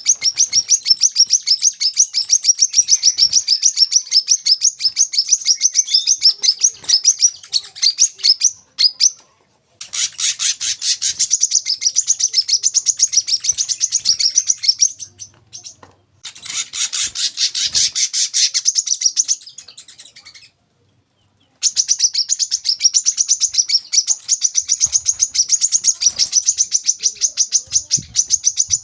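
Brown-throated sunbird (kolibri kelapa) singing a rapid, high-pitched chattering song of fast repeated notes, the 'wiceh' call. It comes in four long bouts separated by short pauses.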